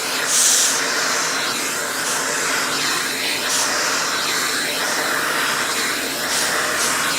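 Loud, steady rush of air from an electric blower motor, with a sharper hiss about half a second in.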